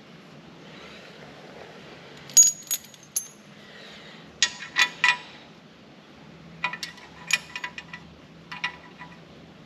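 Steel bolts and nuts clinking against each other and against a steel loader bracket as a bolt is worked into place, sharp ringing clinks in small groups of two or three.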